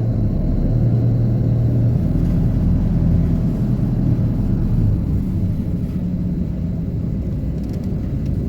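Hino Poncho small bus's diesel engine running under way, heard from inside the cabin as a steady low drone over road rumble.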